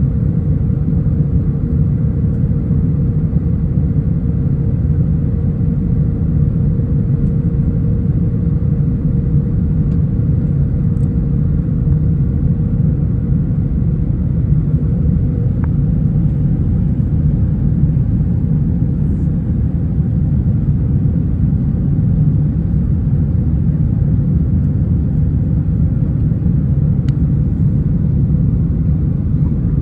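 Steady low rumble of an Airbus A320 cabin, heard from inside the aircraft, with a faint hum that fades away about halfway through.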